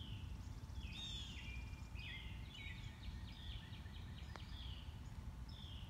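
Small songbirds chirping and trilling in short, repeated high phrases, over a low steady background rumble.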